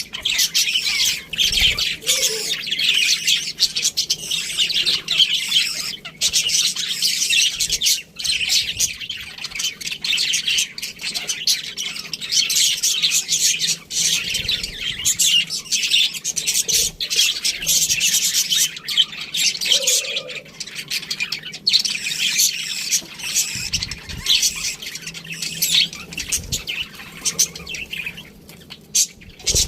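A flock of budgerigars chattering and chirping continuously, many short overlapping chirps and squawks.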